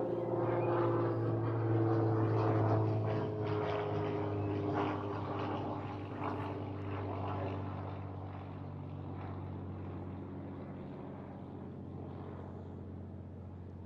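Supermarine Spitfire's piston engine flying past. Its steady propeller note is loudest about two to three seconds in, then slowly drops in pitch and fades as the plane moves away.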